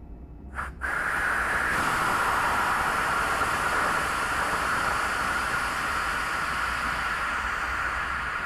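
Air hissing steadily out of a newly filled electric water heater through its opened temperature-and-pressure relief valve, purging the trapped air from the tank; the hiss starts abruptly just under a second in and fades slightly toward the end.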